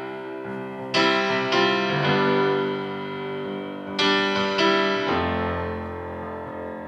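Piano playing a song's introduction: chords struck every second or so and left to ring, with a low bass note coming in about five seconds in.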